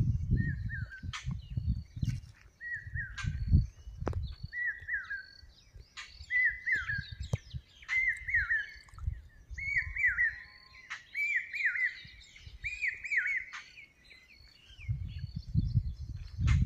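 Birds calling: one bird repeats a short, falling call about once a second, some nine times, growing louder toward the middle. Other birds chirp higher in the background, and a low rumble comes and goes near the start and again near the end.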